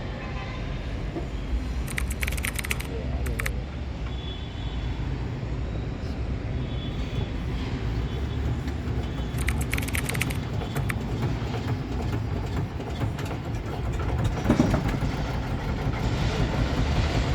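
Steady low outdoor rumble, vehicle-like, with two brief clusters of clicks, one about two seconds in and one about ten seconds in.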